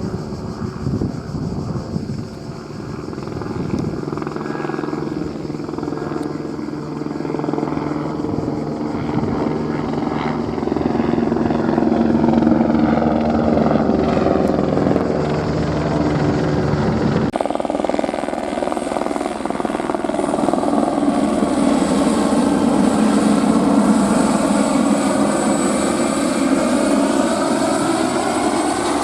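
Airbus AS350 helicopter's single turbine and rotor running, growing louder over the first dozen seconds. About two-thirds through, the sound changes abruptly to a fuller rotor noise with a sweeping, phasing quality.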